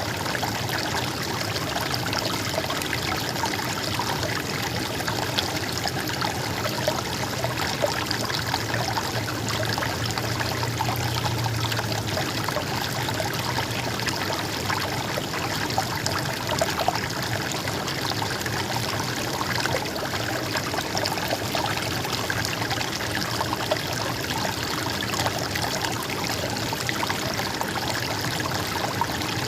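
A stream running steadily, its water splashing and trickling over stones.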